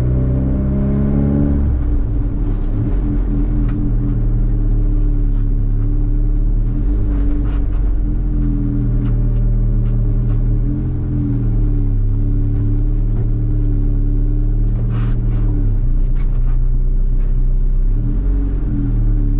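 Honda Civic's engine running steadily, its pitch rising and settling near the start and again near the end, with a few light clicks and knocks over it.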